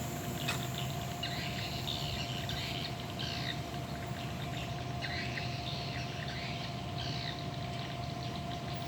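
Birds chirping in short, irregular calls over a steady low engine hum.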